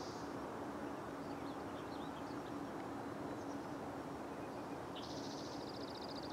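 Small birds calling in an open meadow over a faint steady low hum and hiss: a short high call at the very start, a few faint chirps, then a fast high trill from about five seconds in.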